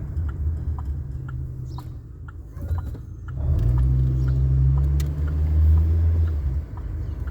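Car engine and road noise heard from inside the cabin while driving: a steady low rumble that eases off, then grows louder about three and a half seconds in as the car picks up speed.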